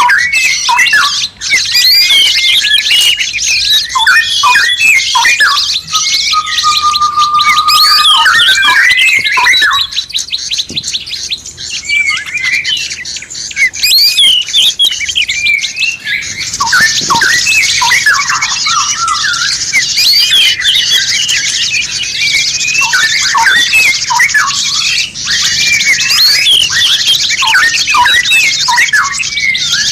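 Dense chorus of songbirds chirping, squawking and whistling over one another in fast trills, with one long held whistle about seven seconds in. It is a songbird tutor (masteran) recording, made for caged birds to copy.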